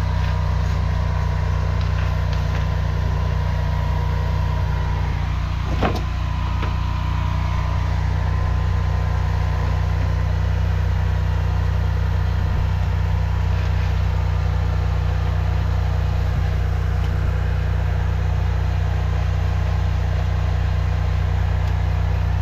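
Engine of a high-pressure drain jetter running steadily while the line is being jetted, with a single knock about six seconds in.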